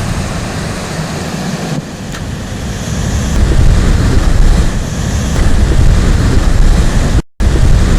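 Strong wind buffeting the microphone over surf washing against the rocky shore, rising and falling in level; the sound cuts out for an instant near the end.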